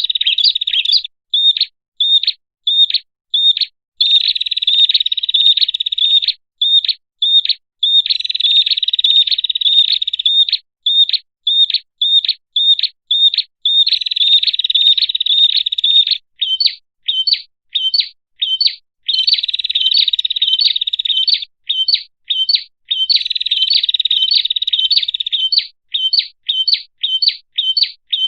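Prenjak (prinia) song played as a bird-lure recording. Rapid runs of high chirping notes alternate with strings of separate short, sharp chirps, with brief silent gaps between phrases.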